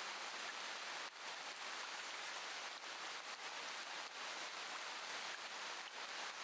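Steady rain falling, an even hiss with a few brief dips.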